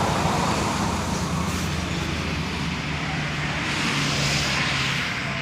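Truck engine running steadily, with a hiss that swells about four seconds in and then fades.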